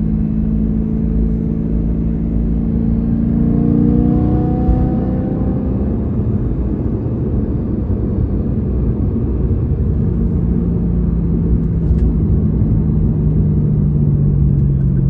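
A BMW E92 M3's V8, fitted with a Valvetronic exhaust, heard on the move. The engine note rises in pitch for a few seconds as the car pulls, then eases off into a steady low drone, with road noise underneath.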